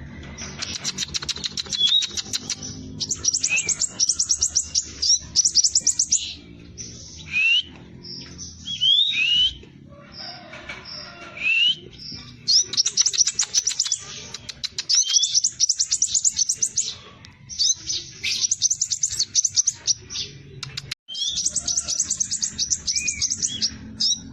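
Scarlet minivet singing in rapid, rattling trills of high chirps, repeated in runs of a second or two, with short rising whistled notes in between.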